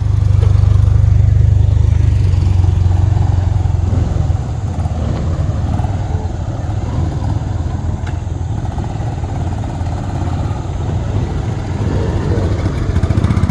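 A motorcycle engine running with a steady low rumble. It is loudest for about the first four seconds, then settles lower.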